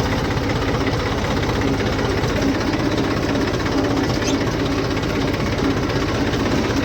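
Tractor's diesel engine running steadily at low revs, with an even, rapid firing pulse.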